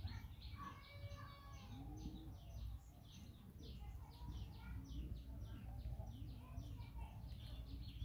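Small birds chirping, a rapid string of short high chirps several times a second, over a low background rumble.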